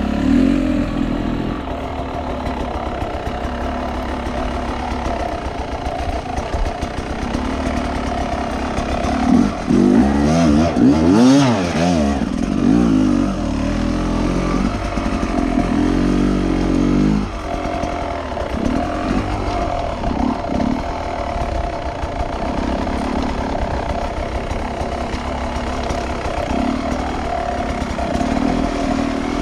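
Two-stroke enduro motorcycle engine, a Beta 300 RR, running under load. It revs up and down repeatedly, with the busiest revving about ten to thirteen seconds in and again around sixteen to seventeen seconds.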